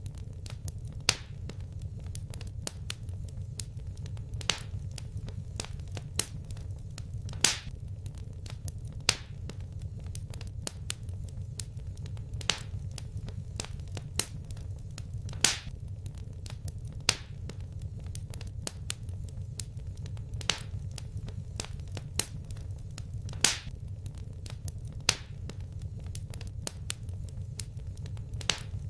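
Wood fire crackling: scattered sharp pops and snaps, a louder one every one to three seconds, over a low steady rumble of the flames.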